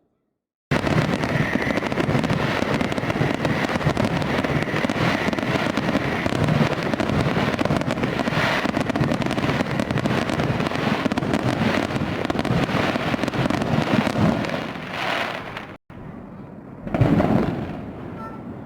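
Fireworks going off in a dense, continuous barrage of rapid bangs and crackling. It breaks off abruptly about sixteen seconds in, then comes back quieter with one louder burst a second later.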